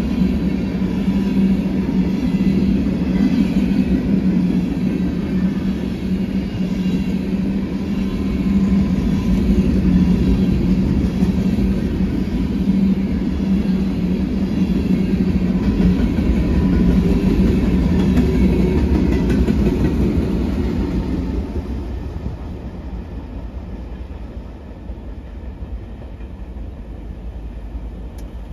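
Freight grain train rolling past, its steel wheels running on the rails in a loud, steady rumble that fades away about twenty seconds in.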